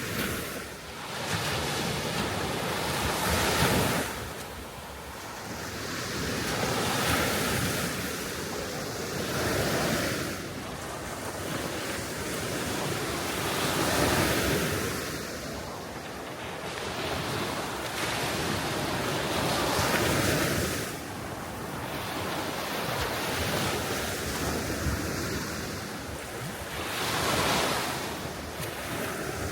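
Gentle sea waves washing onto the shore, a steady hiss that swells and falls back every few seconds, with wind blowing across the microphone.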